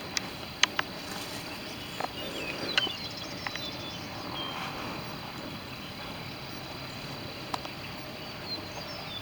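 Quiet outdoor background: a steady high insect-like hum, a few short chirps, and scattered light clicks.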